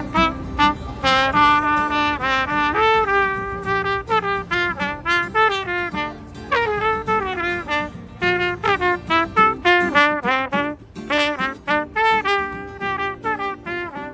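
Live instrumental street music: a bright lead plays a quick melody of short notes over a lower, more sustained accompanying part.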